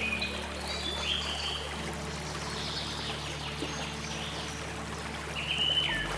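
Wetland ambience: a steady trickle of flowing water, with several short bird whistles and chirps over it, some falling in pitch, and a low steady drone underneath.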